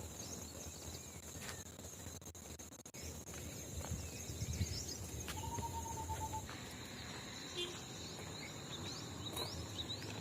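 Insects droning steadily at a high pitch in a forested ghat, with a short run of quick repeated notes about five seconds in, over a low outdoor rumble.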